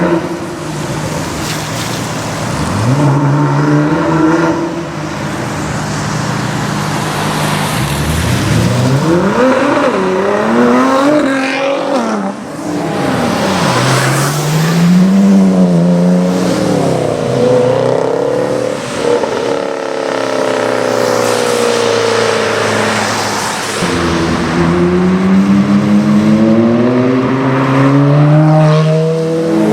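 High-performance sports car engines accelerating hard one after another, each run climbing in pitch through the gears with short drops at the shifts, as the cars pass by.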